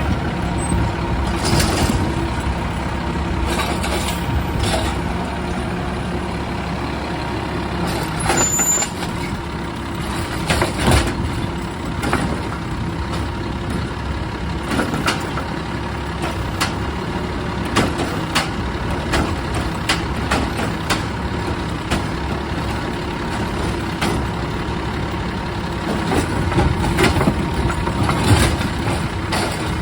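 Garbage truck's engine running steadily, with scattered clanks and knocks from its working equipment.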